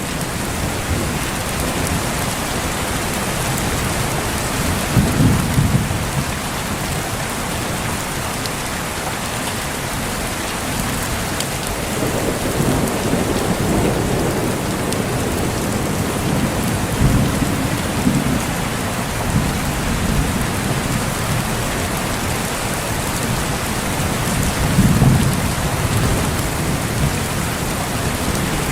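Heavy rain falling steadily, with low thunder rumbling four times, each rumble swelling and fading over a second or two.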